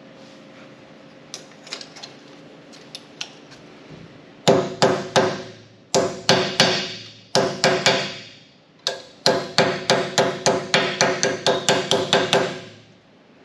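Hammer striking a sheet-steel patch panel, shaping its contour and folded edges: a few light taps, then runs of sharp, ringing metal blows, the last run about four blows a second.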